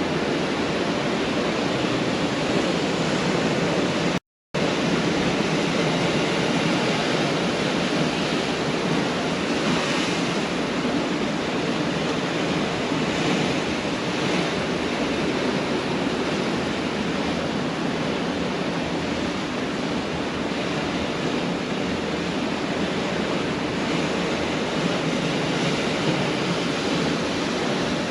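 Pacific Ocean surf: waves breaking and washing on the beach in a steady rush. The sound cuts out completely for an instant about four seconds in.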